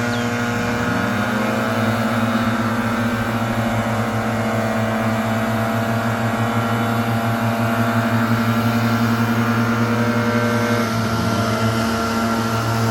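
Leaf blower running steadily at a loud, even pitch, its speed rising briefly about a second in and again near the end.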